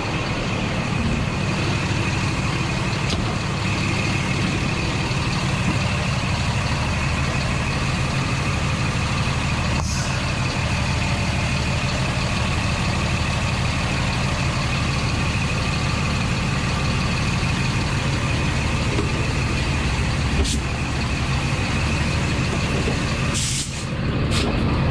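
Old Scania truck's diesel engine idling steadily in neutral with the handbrake set, with a few light clicks and a brief hiss near the end.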